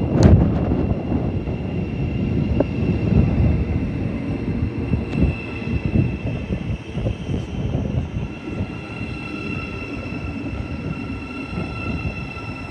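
Thameslink Class 700 electric multiple unit moving at the platform, its electric traction whine steady with a second, lower whine joining about nine seconds in. Heavy wind buffeting the microphone, with a sharp click right at the start.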